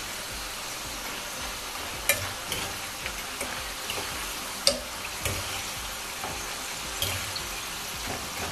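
Corn tortilla triangles frying in hot oil in a skillet: a steady sizzle, with a few sharp clicks of a metal utensil against the pan as the pieces are turned.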